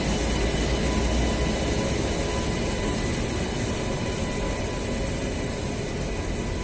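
BEML three-phase AC MEMU electric train rolling past at low speed as it departs: a steady rumble of wheels on rail joints with a thin steady whine over it. The deep rumble lightens about two seconds in.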